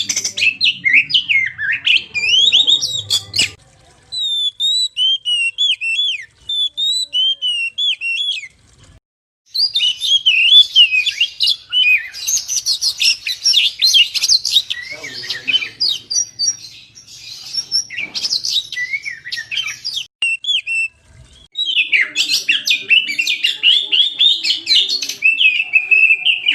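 Oriental magpie-robin singing energetically in rapid, varied whistles and chirps. The song comes in long phrases broken by brief pauses about 4, 9 and 21 seconds in.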